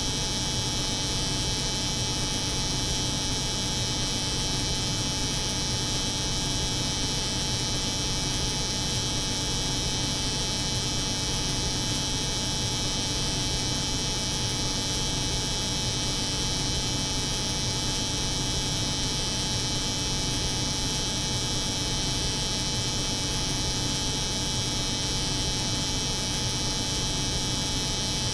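Steady, unchanging layered hum: a cold room's refrigeration unit running, with an electric hair clipper buzzing over it.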